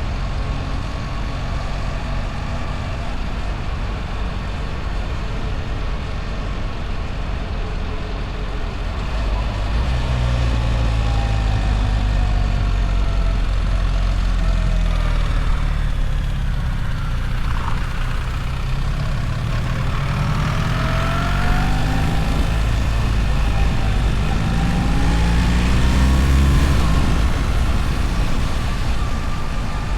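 BMW R1300 GS motorcycle's boxer-twin engine under way with wind and road noise. The engine note rises and falls with the throttle, growing louder about ten seconds in and loudest near the end.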